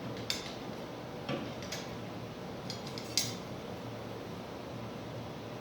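Small metal hardware clinking as a washer and nut are fumbled by hand onto a #10-32 screw: about five light, sharp metallic clicks in the first few seconds.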